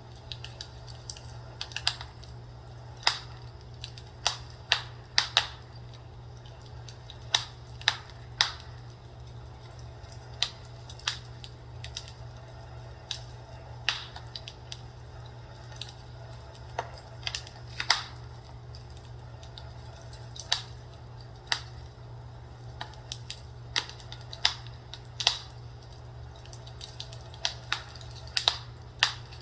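Fireplace crackling: irregular sharp pops and snaps, some coming in quick clusters, over a steady low hum.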